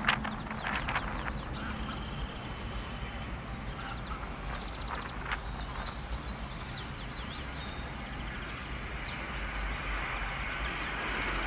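Birds chirping over a steady outdoor background hiss, after a brief knock at the very start. The low noise of an approaching Airbus airliner on final approach swells near the end.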